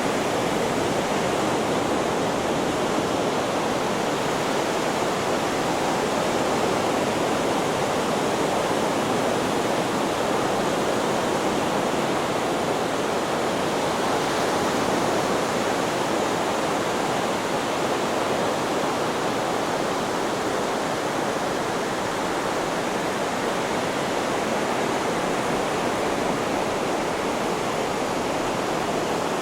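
Steady rushing white noise, even and unchanging, with no swell or break of individual waves.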